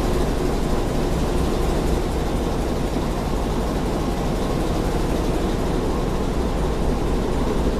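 Engine room machinery of a ro-ro cargo ship running: a steady, unbroken drone with heavy low rumble.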